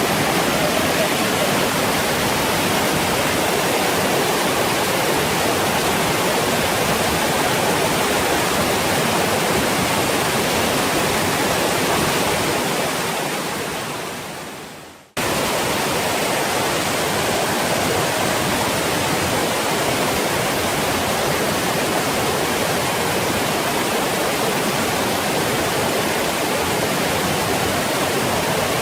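Waterfall: a steady rush of falling water. It fades away about halfway through and cuts back in suddenly.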